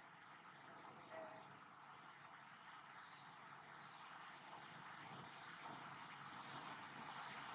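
Faint natural ambience: short high chirps repeating roughly once a second, like a small bird calling, over a soft steady background hiss.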